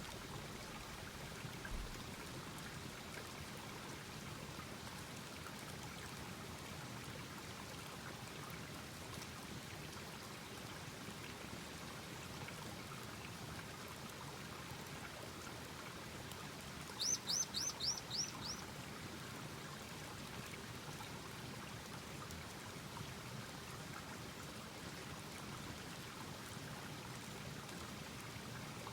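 Wood campfire burning with a steady hiss and faint crackle, and a bird calling once partway through: a quick run of about six high notes, each falling in pitch. A soft low thump comes about two seconds in.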